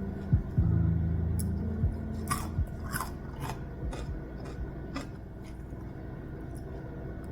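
Crisp crunching of food being bitten and chewed, about six crunches spread over three seconds, over soft fading background music.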